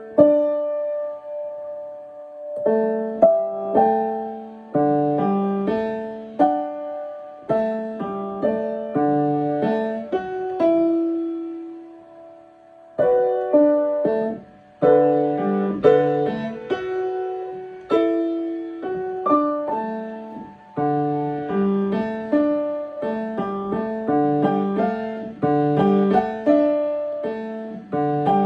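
Piano being practised: a melody over repeated chords, with a short break about a second in and a slowing, quieter stretch around the middle before the playing picks up again.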